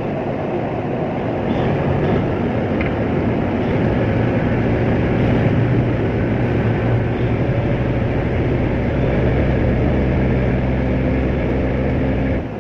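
Heavy diesel machinery on a tugboat running steadily. Its low hum grows louder a few seconds in and drops away abruptly near the end.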